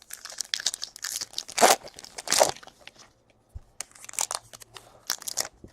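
Foil trading-card pack wrappers being torn open and crinkled, in two bouts of rustling rips.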